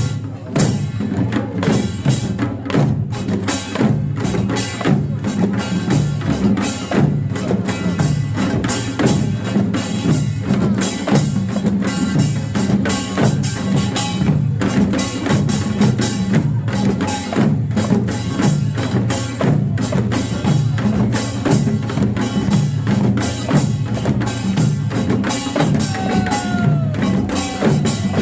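Korean pungmul percussion band playing a fast, dense rhythm: kkwaenggwari small gongs clanging over janggu hourglass drums, buk barrel drums and jing gong.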